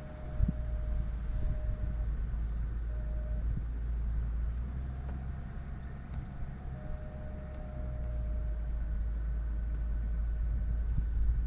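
Steady low rumble of a running vehicle, with a faint whine that comes and goes and a few light clicks.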